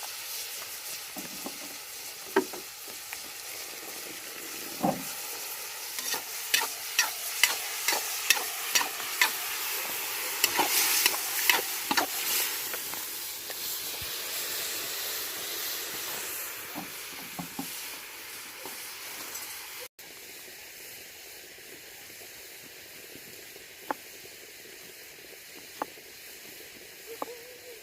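Food sizzling as it fries in a kazan, with a utensil knocking and scraping against the pot as it is stirred. The strokes come in a quick run in the first half. About two-thirds through, the sizzle suddenly drops quieter and only a few strokes follow.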